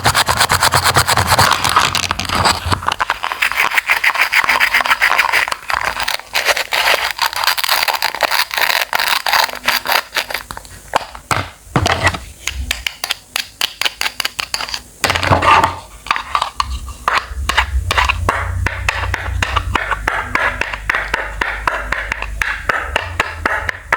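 Knife cutting and chopping fruit or vegetables on a wooden cutting board: fast runs of short strokes mixed with scraping.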